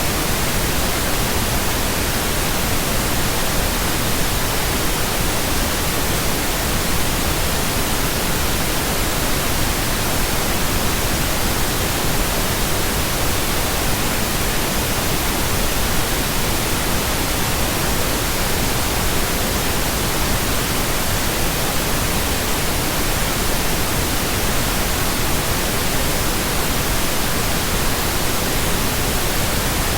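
Steady, unchanging pink noise: an even synthetic hiss across the whole range, with no tones or breaks.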